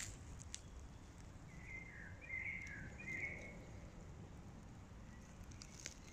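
A bird calls once in a short, wavering phrase around the middle, over a faint low outdoor rumble with a few soft ticks.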